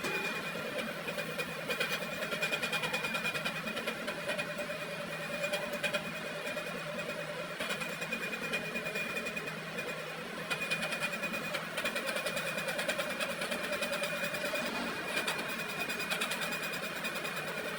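Metal lathe running steadily while machining a steel shaft, with a steady high whine over fine rapid chatter.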